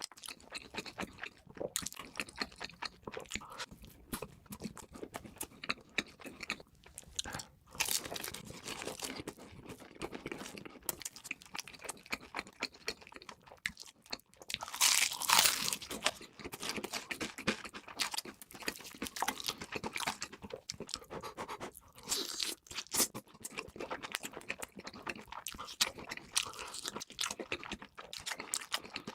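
Close-miked eating: repeated crunching and chewing of crispy fast food, with a louder, longer crunch about halfway through.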